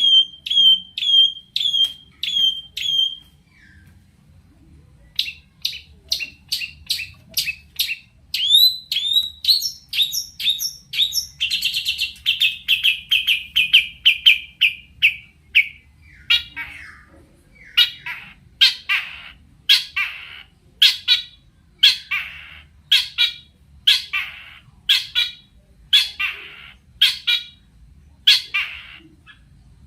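Long-tailed shrike (cendet) singing loudly in a string of sharp, repeated high notes. It breaks off briefly a few seconds in, runs into a fast trill around the middle, then gives rougher calls about one a second.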